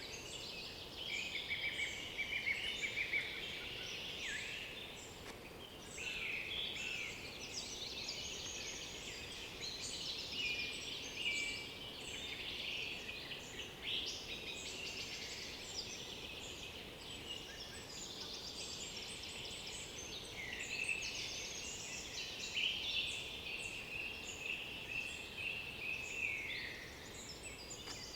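Dawn-chorus-like tangle of several forest songbirds singing at once, overlapping chirps, trills and short whistled phrases throughout with no pause.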